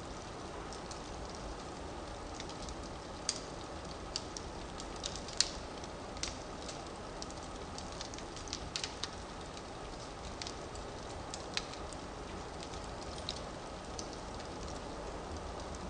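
Burning firewood crackling, with a steady low rush of flames and irregular sharp pops, the loudest about five seconds in.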